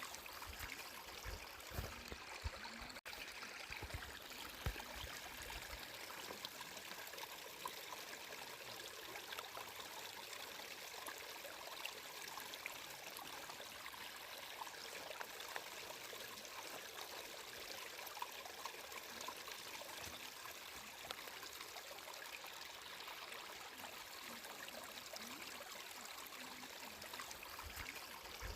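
Flowing water, a steady even rush with a few soft low knocks in the first few seconds and a split-second dropout about three seconds in.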